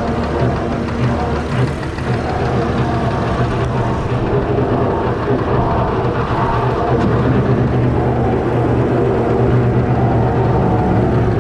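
Fordson Major tractor's swapped-in Perkins six-cylinder diesel running steadily under load, driving a PTO slasher cutting grass.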